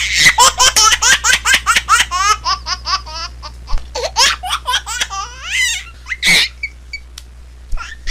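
A baby laughing: a fast run of short, high-pitched laughs for the first three seconds or so, then slower, scattered giggles that thin out near the end.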